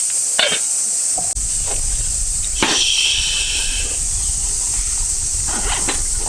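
Cicadas droning in a steady, high-pitched chorus. A few knocks of camp cookware sound over it, and one about two and a half seconds in rings briefly.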